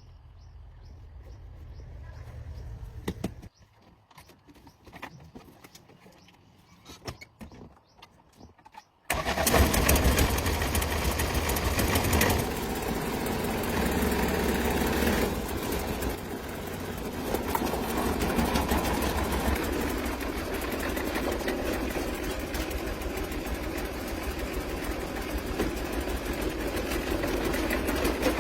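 A few faint clicks and knocks, then about nine seconds in the truck's overhauled diesel engine starts abruptly and keeps running steadily. It is a little louder for the first three seconds after it starts.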